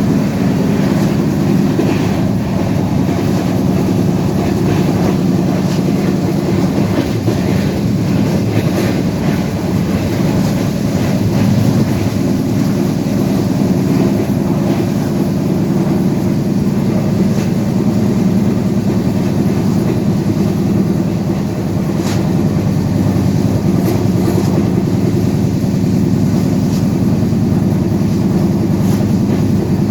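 A moving train running steadily: a loud, continuous low rumble with a few faint clicks.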